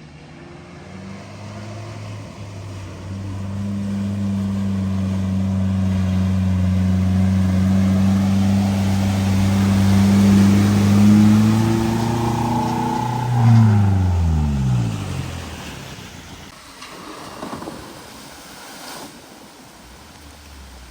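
A motor vehicle's engine growing steadily louder as it approaches and drives through floodwater, with a wash of water noise. About thirteen seconds in its pitch falls away as it passes, and it fades out.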